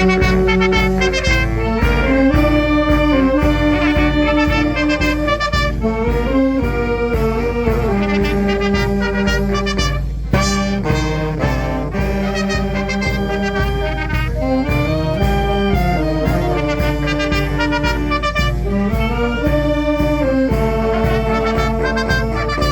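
A youth fanfarra (a brass-and-drum marching band) plays a tune: brass such as trumpets and trombones carry a held, stepping melody over a steady drum beat.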